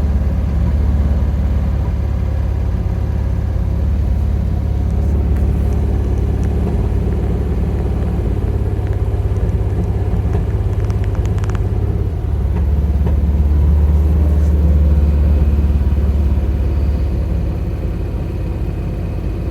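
1967 Triumph Spitfire Mk II's 1147 cc four-cylinder engine idling steadily after a cold start on the choke. It grows a little louder for a few seconds past the middle, then settles back.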